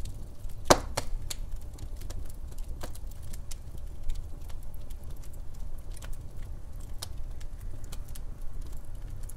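Wood fire in a fireplace burning with a low steady rumble and scattered pops and crackles, the sharpest crack about a second in.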